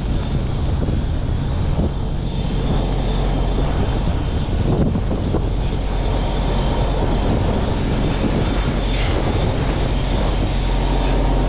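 Heavy diesel truck engine running steadily with a constant low drone.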